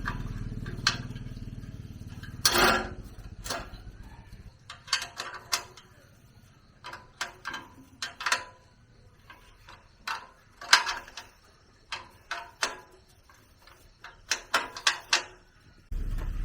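Irregular sharp metallic clicks and knocks, like hand tools and parts being handled on a machine under repair. A low hum fades out in the first few seconds, and a steady hum cuts back in suddenly near the end.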